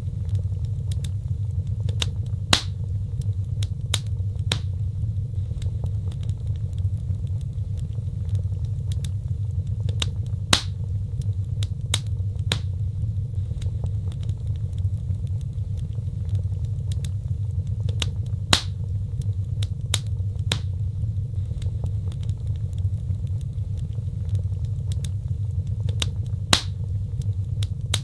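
Wood fire burning: a steady low rumble with frequent sharp crackles and pops, four louder snaps coming about eight seconds apart.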